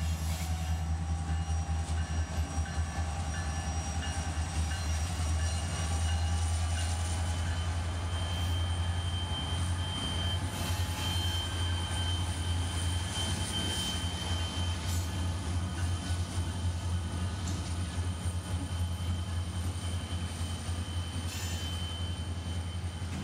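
Diesel freight train passing close by: the locomotives' engines drone low and steady as the cars roll by on the rails, with a thin, steady high wheel squeal from about eight seconds in until near the end.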